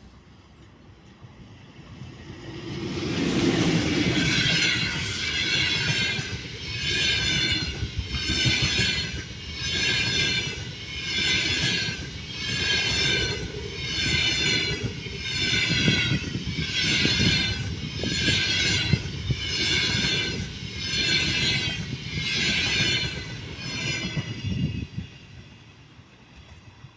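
EP2K diesel locomotive and fast double-decker passenger train passing at speed. The sound rises about two seconds in, then the coaches go by with a high ringing wheel noise that swells about every two seconds over a steady rumble, dying away near the end.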